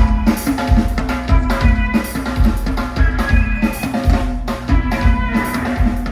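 Live rock band playing loud, with a drum kit driving it in hard, regular kick and snare hits over a held low note.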